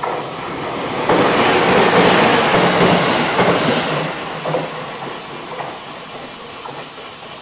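Orange-striped stainless electric commuter train passing close at speed, its wheels clacking over rail joints. The rush of the passing cars swells to its loudest a second or two in, then fades as the train moves away.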